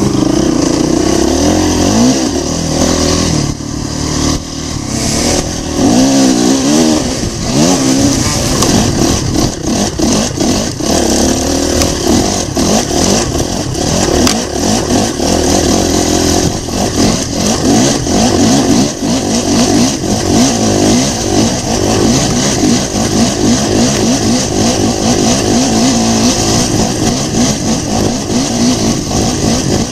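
Dirt bike engine running hard on a trail ride, its revs rising and falling again and again as the rider works the throttle.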